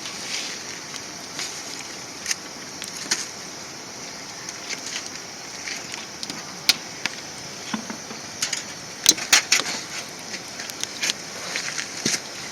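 Wood fire crackling in a small camp fire stove: irregular sharp pops and snaps over a steady hiss, with a quick run of louder pops about nine seconds in.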